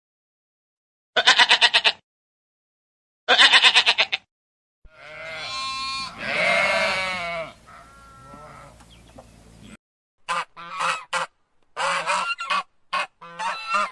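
Geese honking in separate bursts with silence between: two quick runs of rapid honks, then a longer stretch of calls, then a string of short honks near the end.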